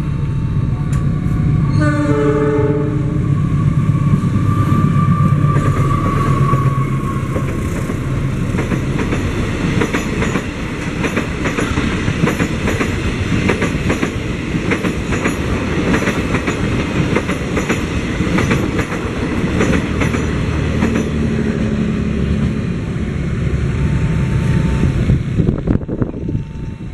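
Diesel locomotive hauling a passenger train gives one short horn blast about two seconds in while its engine rumbles on the approach. The coaches then roll past with a continuous rapid clatter of steel wheels over the rail joints.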